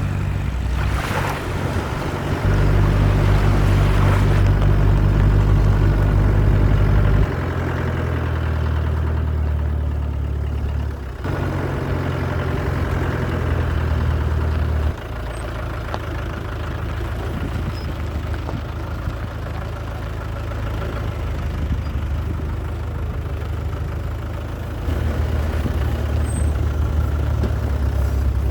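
Land Rover Discovery 1 engine running with a low, steady rumble and a haze of road and wind noise. Its pitch and loudness jump abruptly several times, a few seconds apart.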